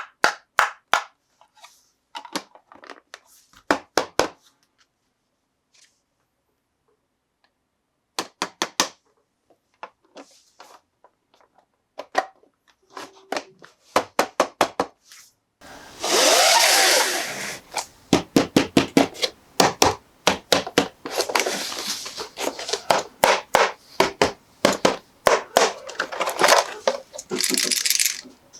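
Toy and packaging handled close to the microphone: quick runs of clicks and taps, with bursts of rustling about halfway through and again later.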